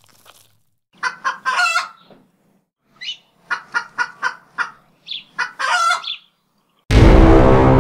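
A chicken clucking in short bursts, in two bouts. Near the end a loud, deep, sustained cinematic horn blast cuts in.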